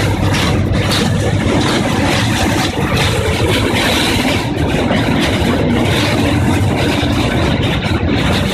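Small forest-railway trolley train running along its track: loud, steady engine and running noise with a low hum and frequent short clicks.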